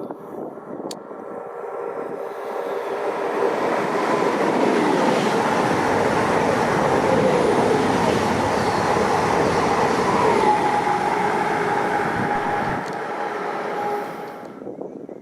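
A train passing through a station at speed: a rising rail roar that holds steady with some tonal whine, then drops away sharply near the end as the train clears.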